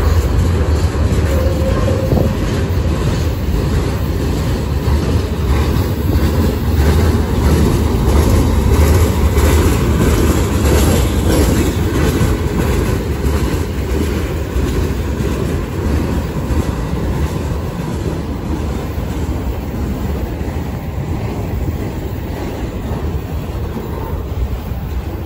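Loaded freight cars of a slow mixed freight train rolling past close by: a steady, loud rumble of steel wheels on the rails with clicking as the wheels cross rail joints, easing a little in the second half.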